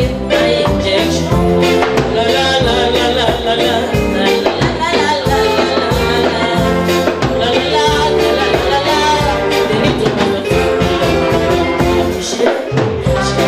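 Upbeat band music with a steady beat, percussion and singing.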